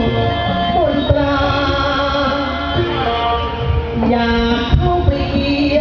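Live music from a Thai troupe's ensemble: a melody of held notes that step and slide in pitch, over scattered drum strokes.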